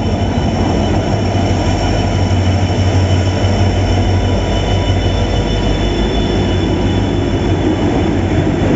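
Janshatabdi Express passenger train running at the platform: a loud, steady rumble with a low hum and thin, steady high squealing tones from the wheels.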